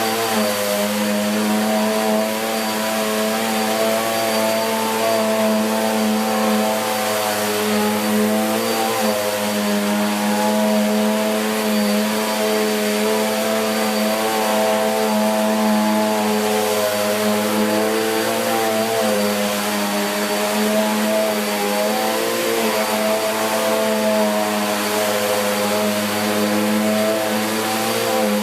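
Bissell Cleanview Plus 1900 W bagless upright vacuum cleaner running steadily while vacuuming carpet, with a motor hum that wavers slightly in pitch and a thin high whine above it.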